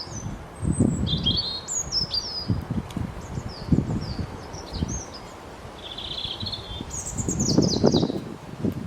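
A small songbird chirping: many short, high chirps, quick downward-sweeping notes and a brief rapid twitter, with low rustling noise coming and going underneath.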